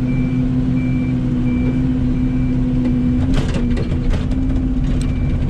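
Excavator's diesel engine running steadily while its travel alarm beeps about every 0.7 s. The beeping stops about halfway through, and a few clanks follow as the engine note dips and recovers under load.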